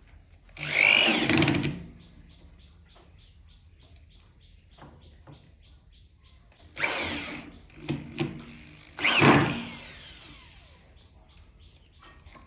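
A power tool running in four short bursts of about a second each, the first and last the loudest, with a faint rapid ticking between them.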